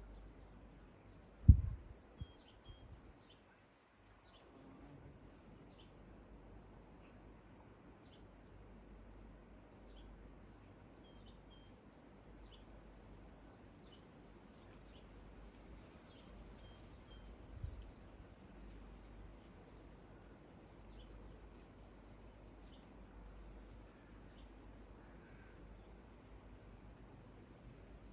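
Crickets trilling steadily in a high, even band, with short bird chirps dotted through it. A loud low thump comes about one and a half seconds in and a softer one about two-thirds of the way through.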